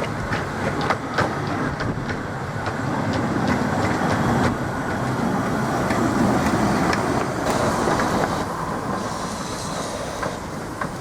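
A 15-inch-gauge Romney, Hythe & Dymchurch Railway train running on the track, with a steady rumble and its wheels clicking over the rail joints. The clicks come thick in the first few seconds, and the sound swells in the middle and eases off toward the end.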